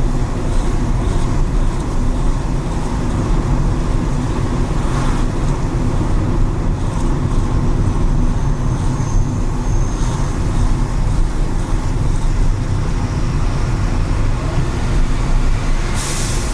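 Car driving on rain-wet city streets: a steady low rumble of engine and road noise with tyre hiss from the wet pavement, and a brief louder hiss near the end.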